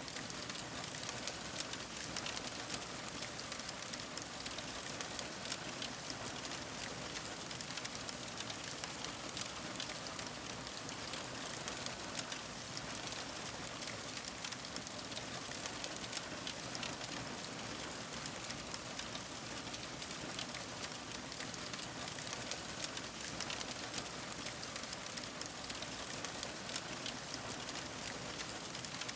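Fire crackling: a steady hiss with many small, sharp pops and snaps, continuous throughout.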